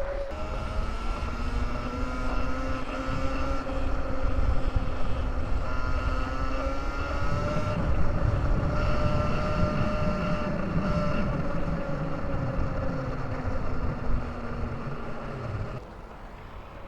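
Electric dirt bike motor whining steadily while riding, its pitch drifting slightly with speed, over low wind rumble. The whine fades out about a second before the end.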